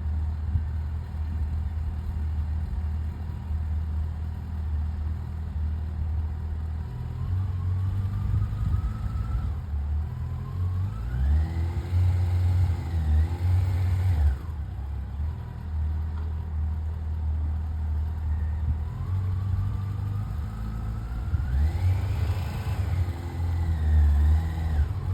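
Yamaha FJR1300 inline-four engine running at low speed with the throttle held up, its revs rising and falling twice as the rider works the clutch friction zone through slow full-lock U-turns.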